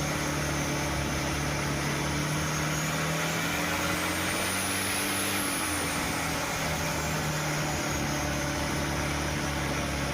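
A boat's engine running steadily, a low even hum with a faint high whine that rises and falls midway.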